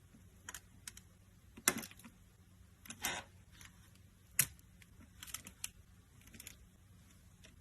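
Faint, scattered clicks and short crackles at an irregular pace, with a few sharper snaps among them.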